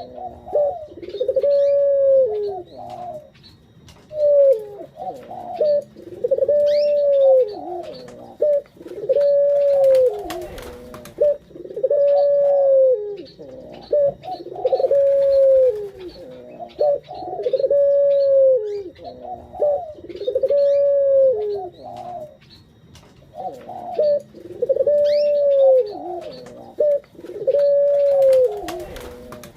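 A male puter dove (ringneck dove) cooing over and over, one low arched coo about every two seconds that rises and falls away at its end. Faint high chirps of small birds sound behind it.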